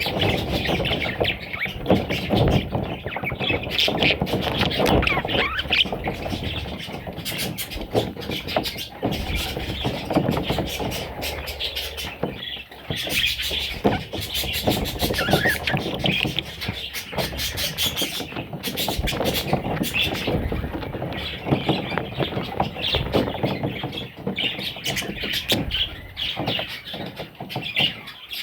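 Budgerigar chicks chirping and squealing almost without pause, with many small clicks and knocks among the calls.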